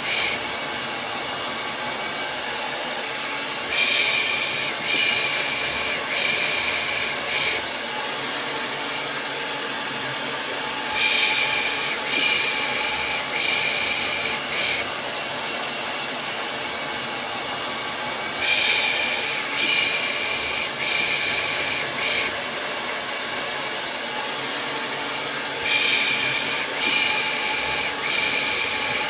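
Hair dryer running steadily, with a person's soft "pış pış" shushing laid over it in groups of about four quick shushes, a group roughly every seven seconds.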